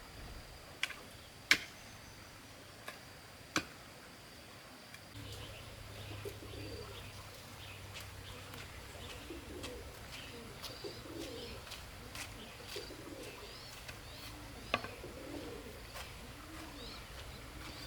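Birds cooing with low, repeated calls, with short high chirps from other birds. There are several sharp knocks in the first few seconds and another near the end.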